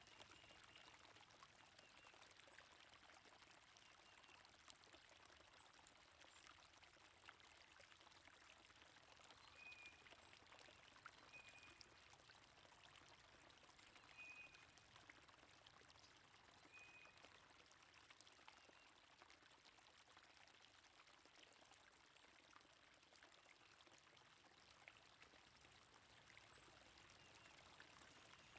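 Faint, steady flowing water from a stream, with four short, high bird chirps near the middle.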